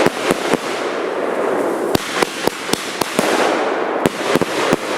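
Consumer 12-shot fireworks cake going off: a continuous crackling hiss dotted with many sharp, irregular cracks and pops from the bursting effects.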